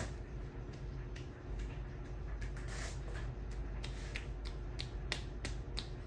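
52-inch Casablanca Delta II ceiling fan running on a fast speed with a steady low motor hum. A dozen or so sharp clicks come at irregular intervals over it, mostly in the second half.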